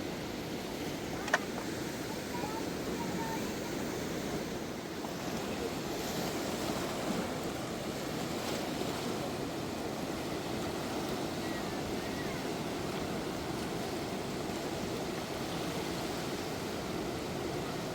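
River in flood rushing steadily after heavy rain. A single sharp click sounds a little over a second in.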